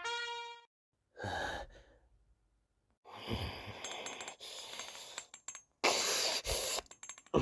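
A person's breathy vocal noises, made by mouth as sound effects: a short huff, then a longer stretch of breathing, then two louder bursts near the end. Brass music trails off at the start.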